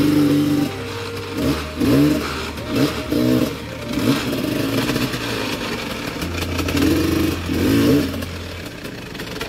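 Dirt bike engine revved in short repeated bursts, its pitch rising and falling about once a second, as the bike is worked over slippery creek-bed rocks.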